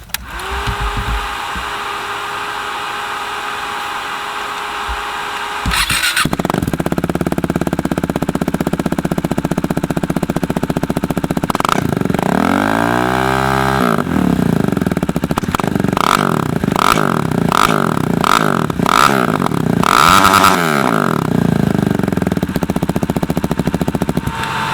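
KTM Duke 390's single-cylinder engine, through a Competition Werkes aftermarket exhaust, idling steadily, then blipped and revved: one long rev up and back down near the middle, a quick string of short throttle blips, then another rev. Really loud and poppy.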